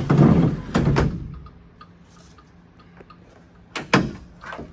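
Parts of a wooden dog crate being handled: a scraping slide with knocks in the first second, then a couple of sharp knocks near the end.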